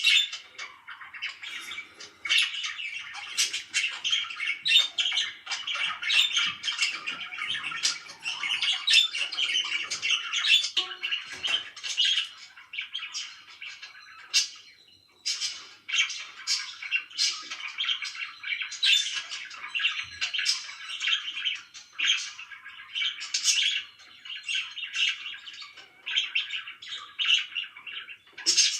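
Pet parakeets chirping and squawking in a constant stream of short, rapid calls, with a brief lull about halfway through.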